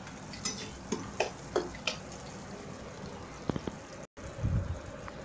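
Sliced shallots and green chillies sizzling steadily in hot oil in a steel kadai, with a few light clicks and scrapes of a perforated steel ladle against the pan during the first couple of seconds and once more later.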